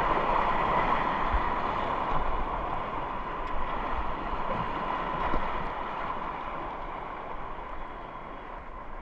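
River water rushing over a small rapid, a steady rush that slowly fades toward the end, with a few soft knocks.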